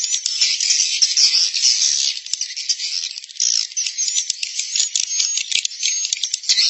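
Swiftlet lure recording of the roosting call: a dense, unbroken twittering of rapid, rattling high-pitched chirps and clicks from many swiftlets, as played in swiftlet houses to draw birds in to roost.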